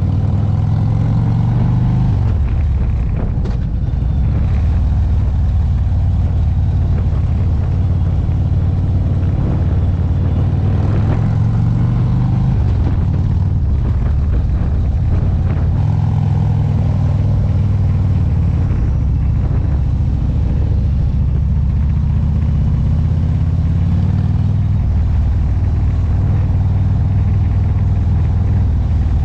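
Motorcycle engine running, its pitch rising and falling as the throttle changes, over a steady low rumble.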